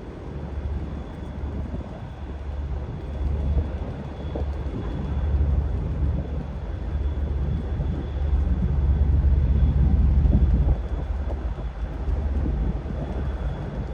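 Wind buffeting the microphone: a low, uneven rumble that swells toward the middle and eases near the end.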